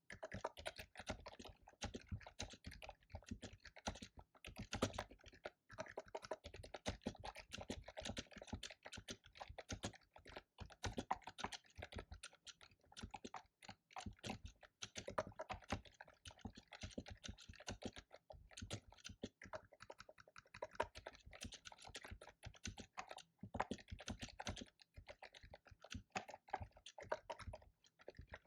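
Fast, continuous typing on a computer keyboard, a dense run of key clicks that stops for brief pauses now and then.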